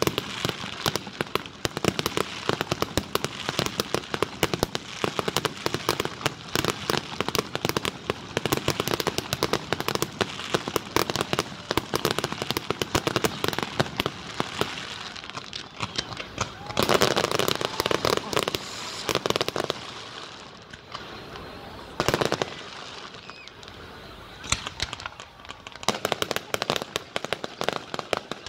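Fireworks display: rapid volleys of bangs and crackling star shells, one after another. The barrage thins out about two-thirds of the way through, then picks up again near the end.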